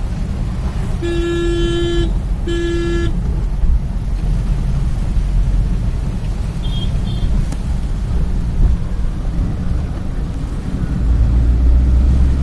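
A vehicle horn honks twice, a blast of about a second and then a shorter one, over a steady low rumble of heavy rain and traffic. Two faint short high beeps come about seven seconds in.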